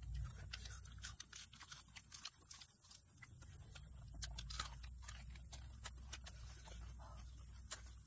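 Someone eating: irregular small crunching clicks and chewing, many close together.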